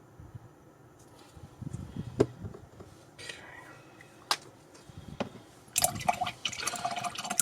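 A few light taps, then from about six seconds in a paintbrush being swished and rattled in a water jar, rinsing it between paint colours.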